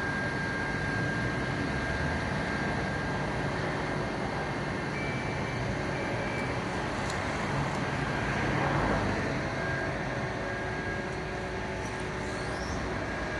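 Steady street and vehicle engine noise with a thin constant tone, swelling briefly just past the middle.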